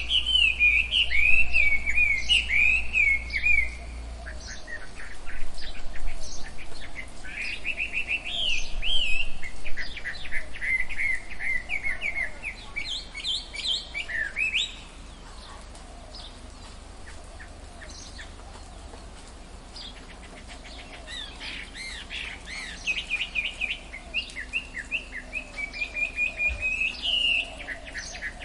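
Forest birds chirping in quick, rapidly repeated phrases of short high notes, with several calls overlapping. About halfway through the chirping falls away to a quieter lull of several seconds, then builds up again.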